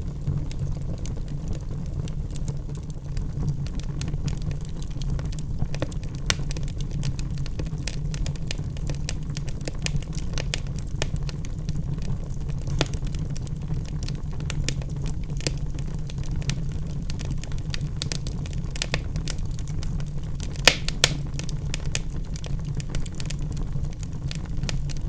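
Wood logs burning in a fireplace, crackling with scattered sharp pops over a steady low rumble. Two louder pops come close together about three-quarters of the way through.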